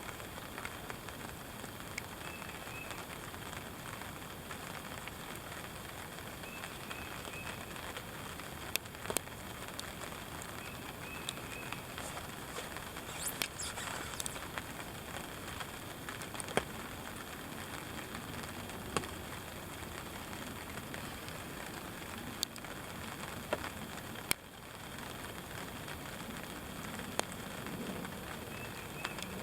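Steady rain with scattered sharp ticks of drops, heard from inside a ground blind.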